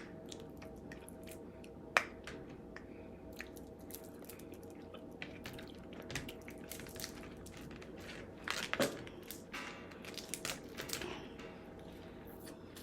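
Crab shells cracking and snapping as they are broken open by hand, with scattered small clicks, a sharp snap about two seconds in and a cluster of cracks around nine to eleven seconds, mixed with chewing.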